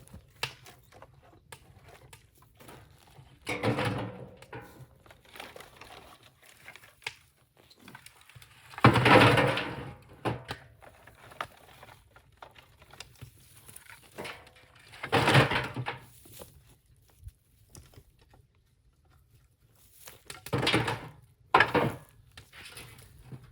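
Bamboo being split and handled: about five separate cracking, rustling bursts, each around a second long, several seconds apart.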